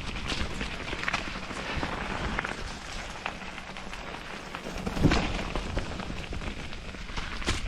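Canyon Spectral AL6 mountain bike ridden down a wet trail: a steady rush of tyre and wind noise with frequent knocks and rattles from the bike, the loudest knock about five seconds in.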